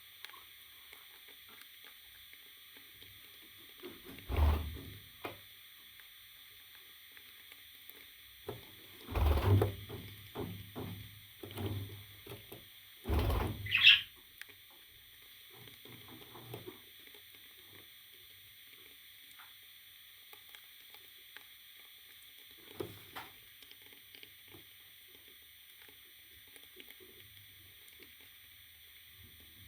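A parrot's scuffles and light knocks, a few louder clusters in the middle, and one short high squeak about fourteen seconds in, over a steady hiss.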